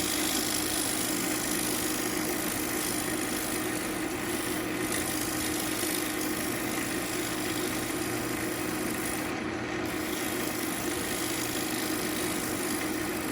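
Central Machinery wood lathe running steadily with a steady motor hum, while a hand tool works the spinning ambrosia maple bowl blank with a steady hiss. The hiss drops away for a moment about nine seconds in, as the tool leaves the wood.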